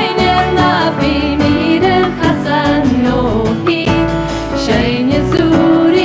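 A woman singing a Gaelic song with a live folk band.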